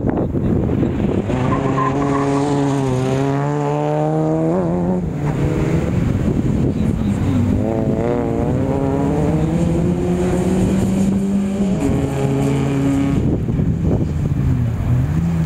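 Rally Toyota Starlet's engine revving hard as it accelerates along the course: the pitch climbs, drops sharply as the driver changes gear or lifts off, and climbs again, about three times.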